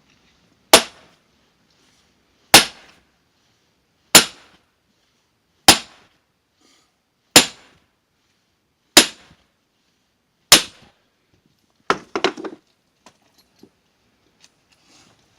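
Firewood being split with heavy blows: seven hard strikes about a second and a half apart, each with a short ring, then a brief clatter of several quicker knocks.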